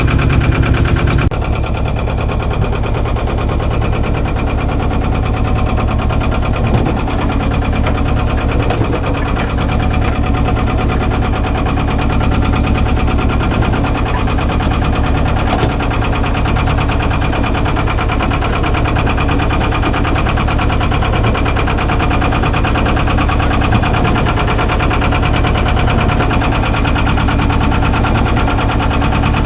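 Albin 2D inboard engine running steadily under way, with a fast, even beat. About a second in its deep low end drops away and it settles slightly quieter.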